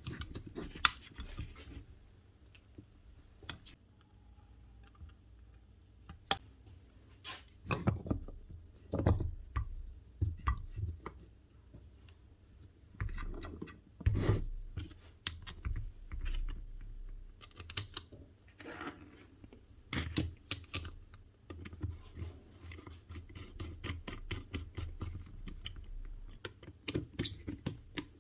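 Irregular clicks, taps and scraping of small metal and plastic parts being handled during hands-on repair work on a Makita GA9040 angle grinder, with a few louder knocks.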